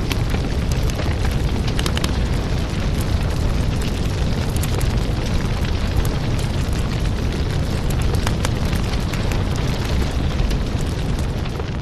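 Firewood burning: a steady low rumble of flames with frequent sharp crackles and pops.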